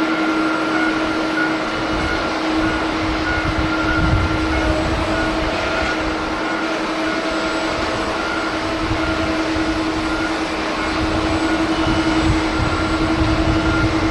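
Jet airliner engines running with a steady whine over a constant rush of noise, with irregular gusts of wind buffeting the microphone.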